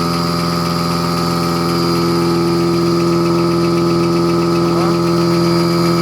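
A motor running steadily at a constant speed with an even hum.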